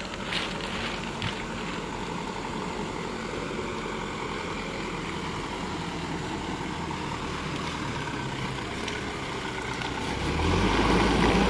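Mitsubishi Canter dump truck's diesel engine running steadily, then getting clearly louder about ten seconds in.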